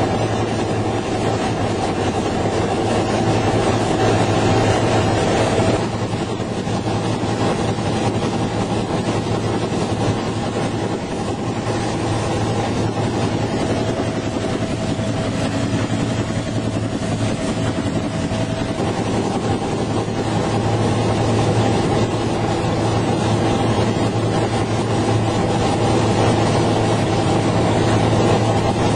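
UH-1H Huey helicopter running steadily: a continuous engine and rotor drone with a low hum and a higher whine. The tone shifts slightly a few times.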